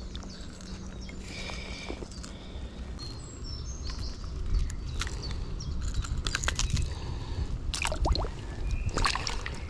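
Outdoor ambience: a steady low rumble of wind on the microphone, with scattered rustles and clicks of handling and a few short high chirps about three seconds in.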